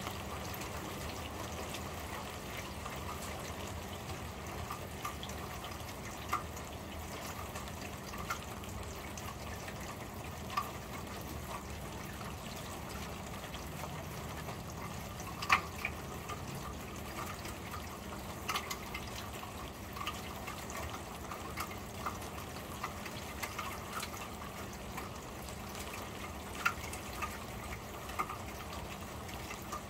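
Steady rain on a corrugated metal roof, heard from underneath, with scattered louder drips and plinks on top, the loudest about halfway through.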